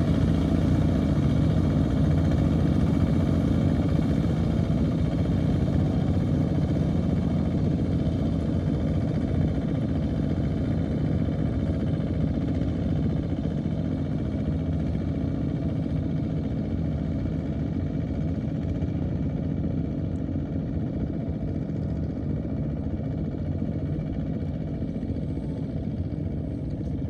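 Engine of a small farm tractor running steadily, slowly fading away.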